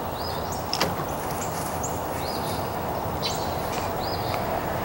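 A bird calling with short, high chirps, repeated about once a second over a steady low background rumble, with one sharp click about a second in.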